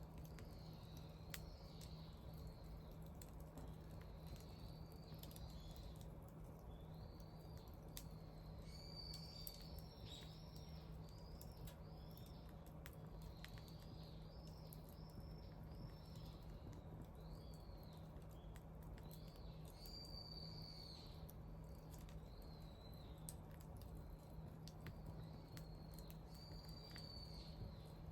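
Small birds chirping over and over, with faint sharp crackles from a wood fire and a low steady hum underneath.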